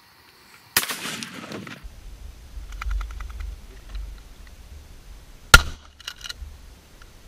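Two shotgun shots about five seconds apart at teal in flight; the first fades over about a second, the second is sharper and louder. A low wind-like rumble runs under the second half.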